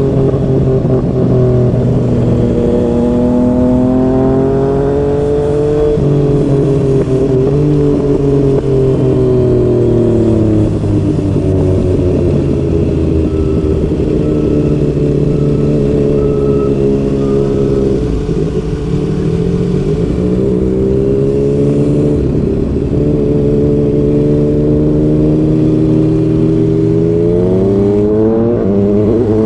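Yamaha MT-09's three-cylinder engine through a Yoshimura R55 slip-on exhaust, riding with the revs rising and falling. It pulls up early on, drops back about six seconds in, sinks slowly through the middle as it eases off, and climbs again twice, the last time near the end.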